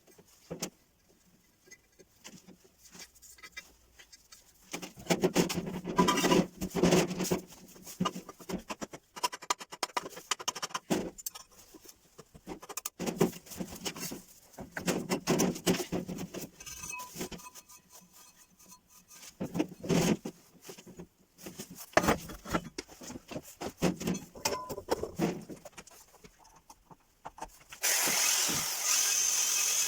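Hand work on metal parts: irregular knocks, clanks and scrapes in short clusters. Near the end a power tool starts and runs steadily.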